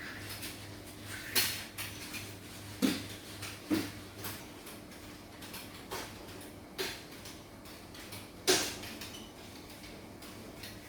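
About six sharp knocks and clacks at irregular intervals, typical of household things being handled and set down during cleaning, over a faint steady hum that stops about four seconds in.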